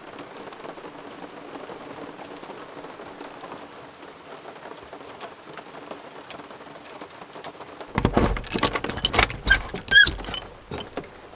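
Steady rain pattering on the truck camper and its porch roof. About eight seconds in, a cluster of loud knocks and clattering breaks in, with a short squeak among them.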